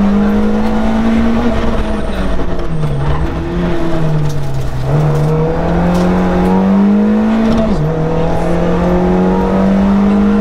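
BMW E36 318ti rally car's four-cylinder engine under hard acceleration, heard from inside the cabin. The revs climb and drop sharply at an upshift about a second and a half in, fall away around the middle as the car slows, then climb again to another upshift near the end.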